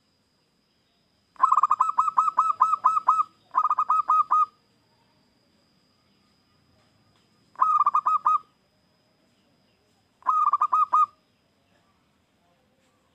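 Zebra dove singing: four phrases of rapid staccato cooing notes. The first and longest starts about a second and a half in and runs nearly two seconds, followed at once by a shorter one, then two shorter phrases a few seconds apart.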